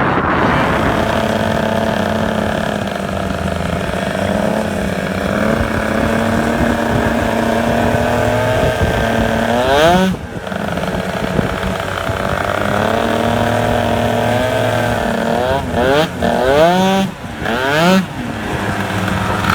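Tuned 70cc two-stroke scooter engine with a Stage 6 MK2 Racing cylinder kit and Hebo Manston expansion exhaust, running steadily at high revs. About halfway it revs up sharply and drops off. Near the end it gives several more quick rev rises, each falling away suddenly.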